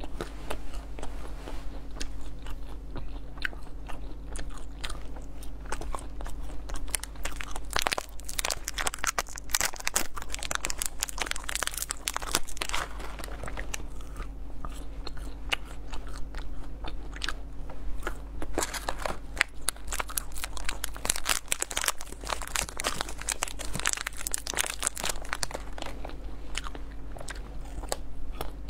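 Close-miked chewing of soft almond-filled milk-bean sweets, with many small irregular crunches as the almonds inside break between the teeth.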